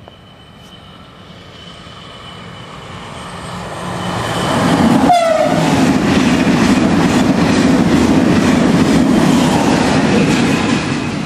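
A train approaching and passing at speed. Its steady tones drop sharply in pitch as the front goes by, about halfway through, followed by the loud rush and rhythmic clatter of the cars over the rail joints, fading near the end.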